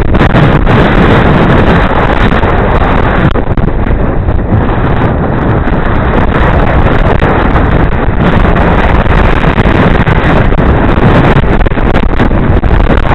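Loud, steady wind buffeting the microphone of a helmet-mounted camera on a moving bicycle: a rushing, fluttering noise heaviest in the low rumble.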